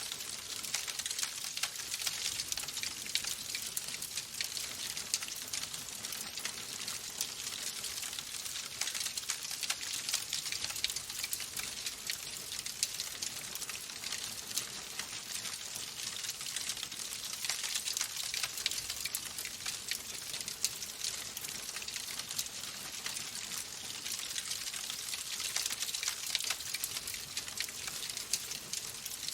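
Wood fire crackling in a fireplace: a dense, steady run of small snaps and pops over a hiss.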